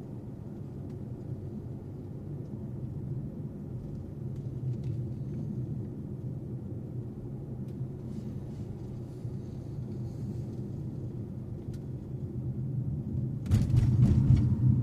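Steady low rumble of a car driving, road and engine noise, with a few faint ticks. About a second before the end it turns suddenly louder, with a brief crackle and then a heavier rumble.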